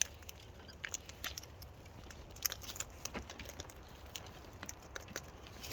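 A cockatoo eating close by: irregular small crunches and clicks as it bites and cracks food with its beak.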